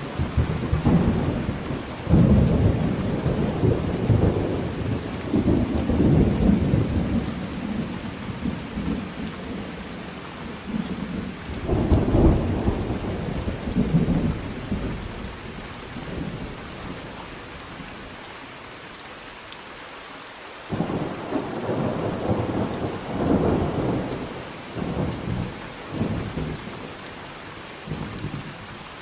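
Thunderstorm: steady rain with rolling thunder rumbling over it. A long rumble fills the first several seconds and another comes about twelve seconds in. After a quieter lull of rain alone, a series of rumbles follows in the last third.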